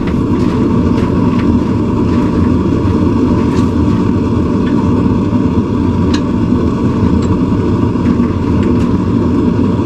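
Forge running with a loud, steady rumble, with a few light metallic clicks scattered through it as the hot tong blank is twisted.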